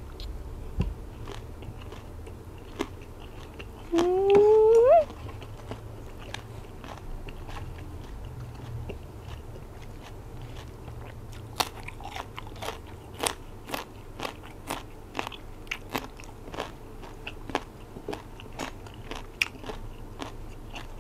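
Mouth chewing a spoonful of silkworm-pupa and green-mango salad, with a loud rising "mmm" from the eater about four seconds in. From about halfway on there is a steady run of sharp crunches from chewing raw yard-long bean.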